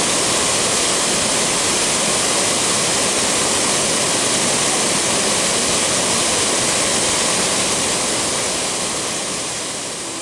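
Steady rush of falling water, like a waterfall, fading down over the last couple of seconds.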